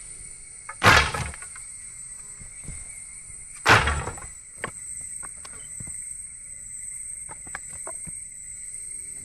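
Two loud sharp strikes about three seconds apart, each dying away within half a second, followed by a few faint ticks, over a steady high-pitched drone of jungle insects.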